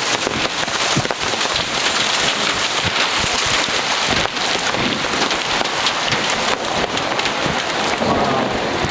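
Heavy rain falling hard and steadily on an open umbrella, a dense hiss of many small drop impacts.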